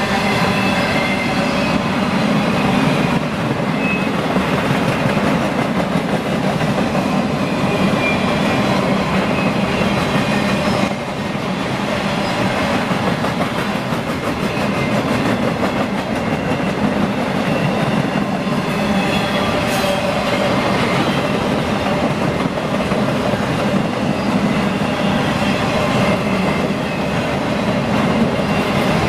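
Freight train rolling past on the rails: a steady, loud clatter of wheels over the track that goes on without a break.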